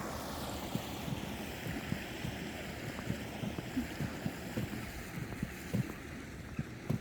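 Footsteps of someone walking, short low thuds about twice a second, over a steady rushing noise.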